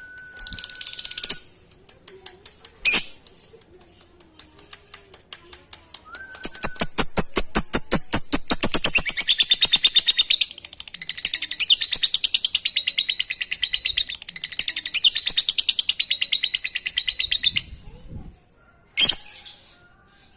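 Male lovebird singing ngekek: a long, rapid chattering trill of about eleven seconds that starts as fast ticks and thickens into a dense high chatter, with short chirps before it and near the end.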